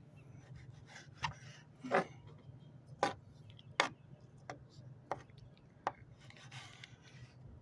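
A knife cutting up mackerel for bait on a board: a run of sharp chops about every three-quarters of a second, with scraping between them, over a faint low hum.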